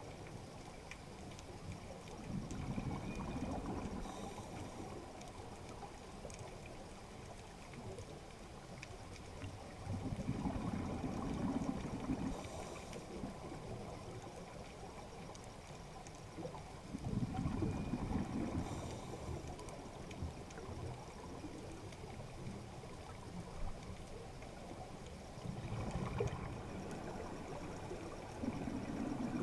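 A scuba diver's breathing underwater: bubbling exhalations through the regulator about every seven seconds, each lasting about two seconds, with a faint short hiss after each.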